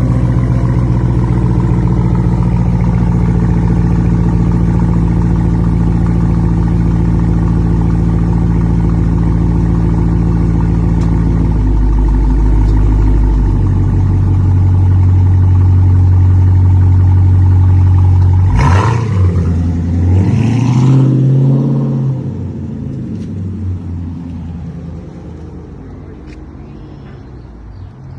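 2021 Dodge Charger Daytona's 5.7-litre HEMI V8 running loud through a 3-inch X-pipe and catback with no resonator or muffler: a steady deep drone that drops in pitch about twelve seconds in, then two quick hard revs or surges of acceleration a little after halfway, after which it dies down.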